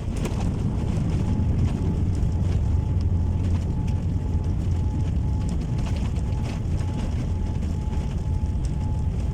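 Steady low rumble of a jet airliner heard from inside the cabin, with a faint broken tone and light scattered clicks.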